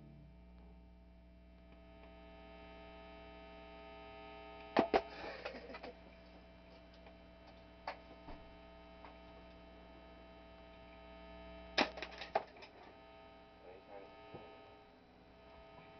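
Steady electrical mains hum from the band's switched-on amplifiers between songs, with a few scattered clicks and knocks, the loudest about five seconds in and again around twelve seconds in.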